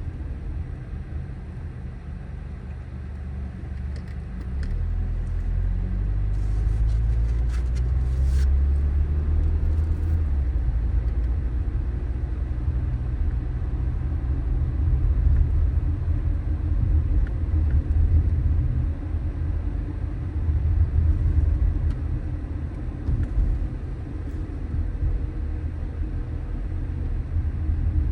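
Car on the move: low engine and road rumble. It builds from about four seconds in as the engine pitch rises while the car gathers speed, then runs steadily.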